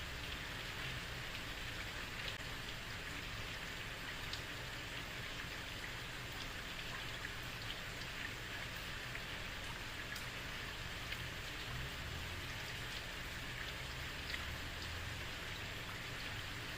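Heavy rain falling steadily on a street: an even hiss of rainfall with scattered individual drop splashes.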